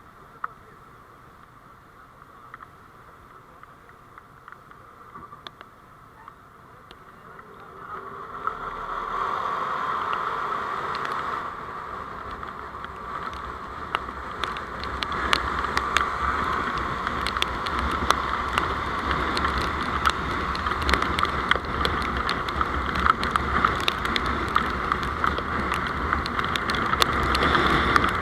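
A vehicle's engine and road noise. It is low for about eight seconds, then grows louder as the vehicle gets under way, with many scattered sharp ticks.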